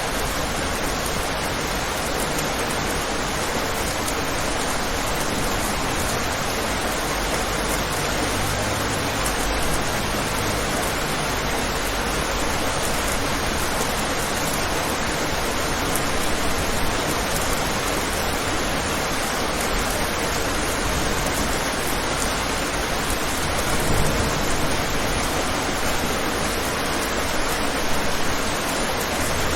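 Steady rain on a window: a continuous, even hiss, with a couple of brief low rumbles along the way.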